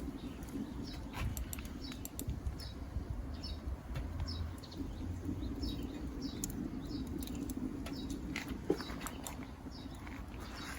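A small bird chirping over and over, one short high chirp about every two-thirds of a second, over a low steady rumble with scattered sharp clicks.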